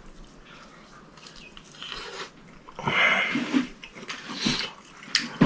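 A person biting and chewing crisp fried fish in a flour-and-curry-powder coating, with irregular crunches, the loudest about three seconds in.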